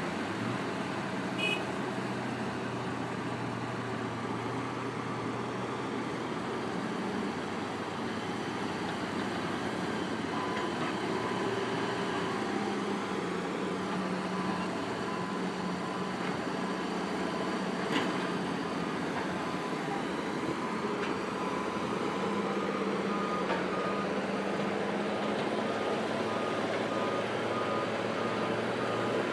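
Cat 320C hydraulic excavator's diesel engine running steadily as it loads a truck. Near the end a backup alarm starts beeping in a steady repeating pattern, and there is a single sharp clank partway through.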